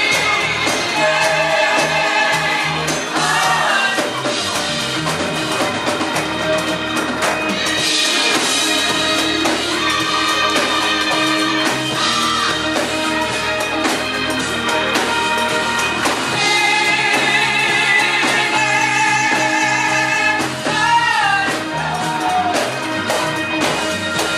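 Gospel music: singing with vibrato on held notes over a steady instrumental accompaniment.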